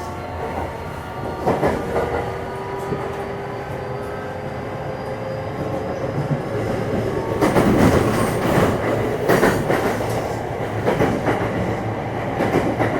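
Hitachi IGBT VVVF inverter and traction motors of a JR West 227 series EMU whining in several tones that rise slowly as the train accelerates, over steady running rumble. From about halfway in, the wheels clack over rail joints in a run of sharp knocks.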